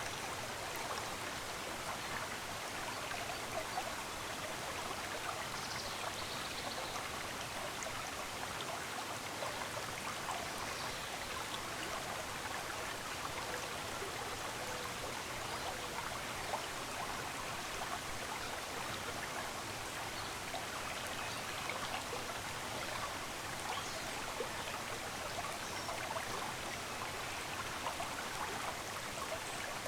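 A stream of running water flowing steadily, with a few faint bird chirps now and then.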